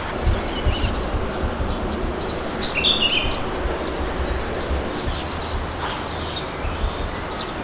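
Wind blowing with a low, uneven rumble, and birds chirping now and then, most clearly about three seconds in.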